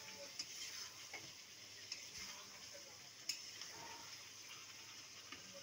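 Faint sizzle of chicken curry frying in a metal kadhai, with a spatula stirring and a few light clicks of the spatula against the pan.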